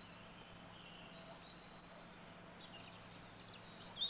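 Faint birdsong, short chirping phrases, with a brief louder burst of chirps near the end, over a low steady hum.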